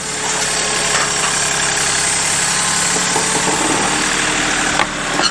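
Kioti CK3510 compact tractor's three-cylinder diesel engine running steadily as the tractor is driven up the ramps onto a trailer, with a brief change in the sound near the end.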